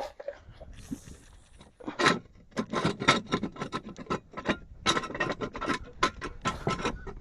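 A quick, irregular run of sharp metallic clicks and knocks, several a second, starting about two seconds in: tools and metal parts being handled around a jacked-up car.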